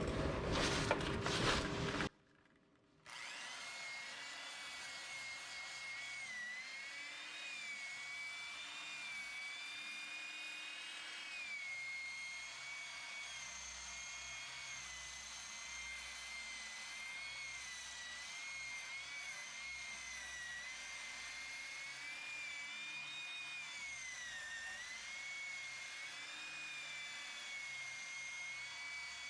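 Old Black & Decker 1/4-inch electric drill spinning a wire wheel against a rusty exhaust pipe, scrubbing off rust: a steady high motor whine whose pitch sags and recovers several times as the wheel is pressed on. A louder, denser stretch fills the first two seconds, then the sound breaks off for about a second before the whine starts.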